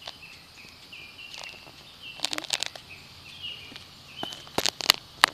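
Outdoor nature ambience: a steady high insect-like buzz with short chirping notes repeating throughout. Sharp clicks and crackles come in a cluster about two seconds in, and louder ones near the end.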